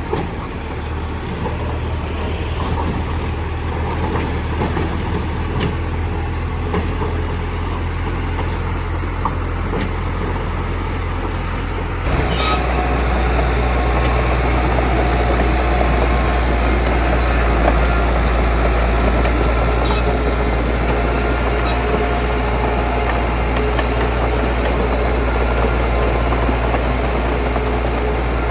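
Heavy diesel engine of earthmoving machinery running steadily. About twelve seconds in the sound changes abruptly and becomes louder and fuller.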